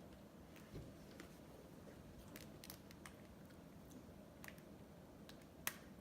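Quiet ice-cream eating sounds: faint scattered mouth clicks and smacks, with one sharper click near the end.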